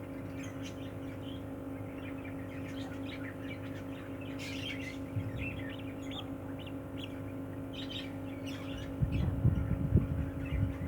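Budgerigars chirping in short scattered calls over a steady electrical hum, with a few low knocks and rustles of handling about nine seconds in.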